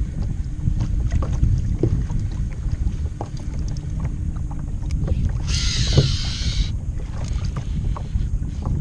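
Wind rumbling on the microphone aboard a kayak on the water, with light knocks throughout. About five and a half seconds in, a sudden hissing burst lasts about a second, then cuts off.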